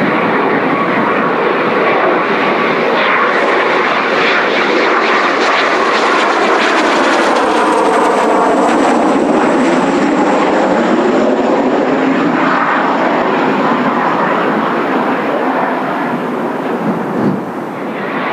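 Kawasaki T-4 jet trainer's twin turbofan engines running close by as the jet passes, a steady jet roar with a high whine that slowly falls in pitch through the middle.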